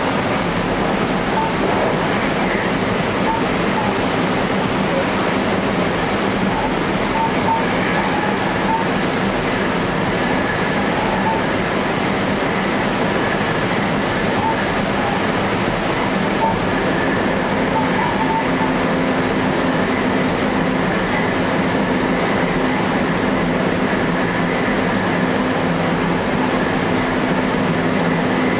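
JR electric train running steadily at speed, heard from inside the front cab: an even rumble of wheels on rail with a low steady hum underneath.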